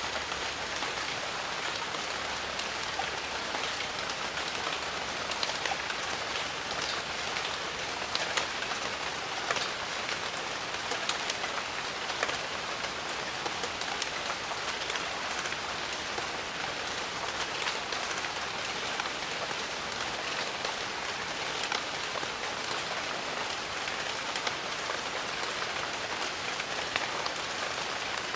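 Steady heavy rain falling on jungle foliage, a dense even hiss with many separate drops ticking through it.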